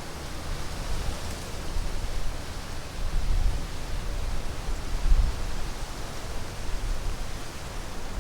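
Wind gusting against the microphone as low, uneven rumbling, with the strongest gust about five seconds in, over a steady windy hiss.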